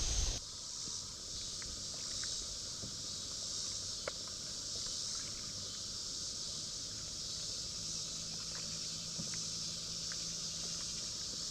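Steady high-pitched chorus of insects, with a few faint ticks scattered through it. A brief low rumble sounds at the very start and stops within half a second.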